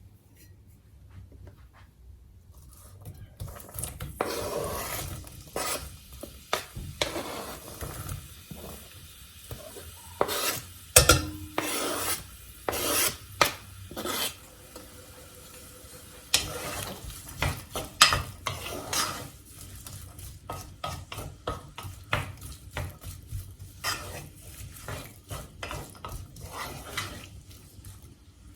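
Kitchen utensils scraping, stirring and clinking against pots and dishes. It starts a few seconds in as a run of irregular scrapes and clicks, with a few sharper knocks.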